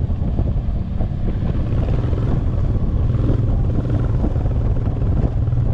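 Motorcycle fitted with an aftermarket barrel exhaust, engine running steadily with a low, even pulse, with some wind noise on the microphone.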